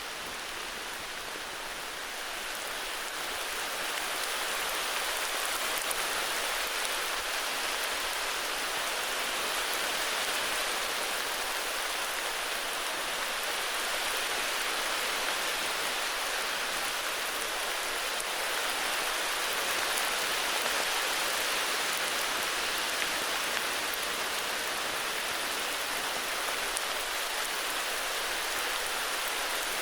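Steady heavy rain: a dense, even hiss of falling drops that grows a little louder a few seconds in, then holds steady.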